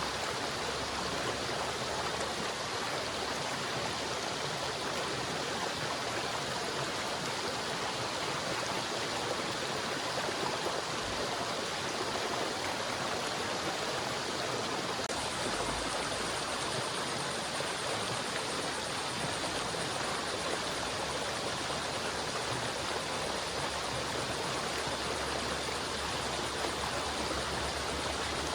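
River water flowing steadily over rocks, a constant even rushing with no breaks.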